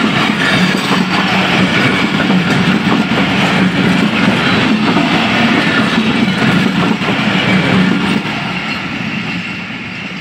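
Passenger coaches rolling past close by, their steel wheels clattering over the rail joints in a steady loud rumble. About eight seconds in the last coach goes by and the sound falls away as the train moves off.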